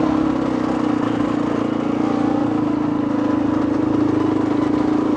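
Two-stroke dirt bike engine running steadily at an even pitch.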